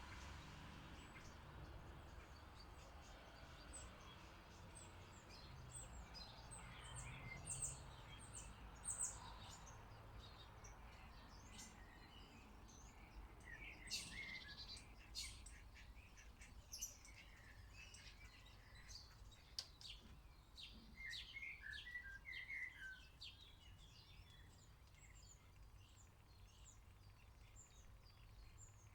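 Faint chirps and short calls of several small songbirds, coming thickly through the middle and thinning out near the end, over a steady low background hum.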